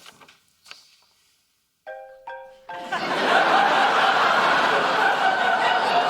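A mobile phone ringtone plays a few quick marimba-like notes about two seconds in. The studio audience then breaks into loud, sustained laughter, which is the loudest sound.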